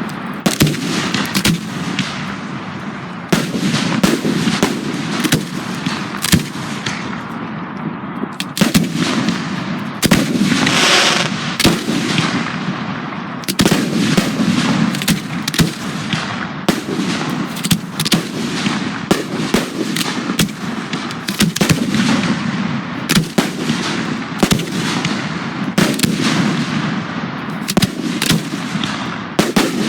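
Aerial fireworks display going off continuously: electronically fired shells and cakes launching and bursting in rapid, overlapping bangs with a steady crackle beneath, and a denser crackling flurry about ten seconds in.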